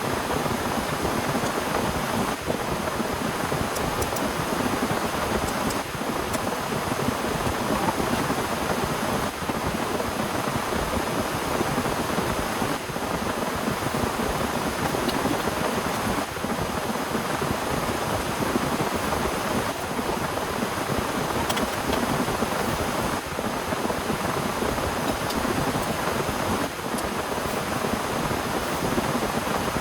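Heavy rain falling in a steady downpour, an even rushing hiss with no letup.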